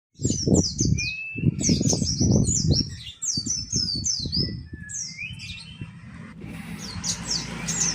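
A kept songbird calls in a rapid series of short, high, downward-sliding chirps. Loud low thuds and rustles sound over the first five seconds or so, and a steady background hiss comes in near the end.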